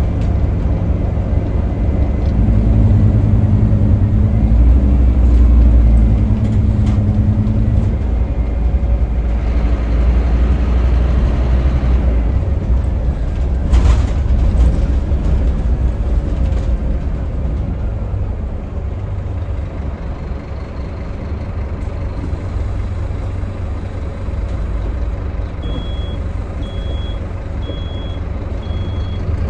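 Scania K310UB city bus heard on board, its engine pulling hard for the first several seconds, then easing off. A sharp knock comes about halfway through, and four short high beeps about a second apart sound near the end.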